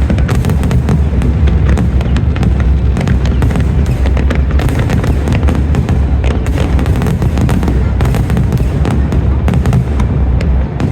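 Aerial fireworks display: a dense, continuous crackle of many small bursts over a steady low rumble of shell booms.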